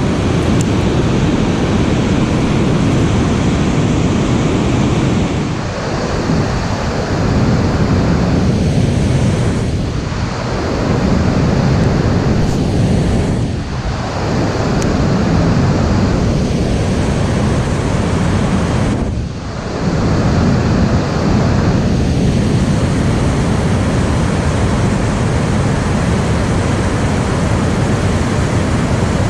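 Wind buffeting the microphone as a steady, loud rushing noise, easing briefly a few times.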